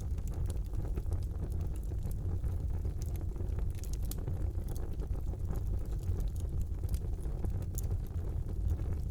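Wood fire burning in a fireplace: a steady low rumble from the flames, with scattered crackles and small pops at irregular moments.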